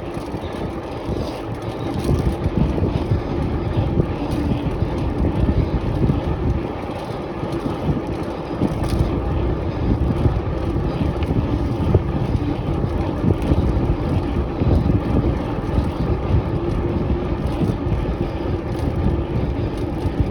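Bicycle riding over a rough, bumpy track: a continuous, uneven rumble of tyres and frame jolts with wind buffeting the handheld phone's microphone, and a steady faint hum underneath.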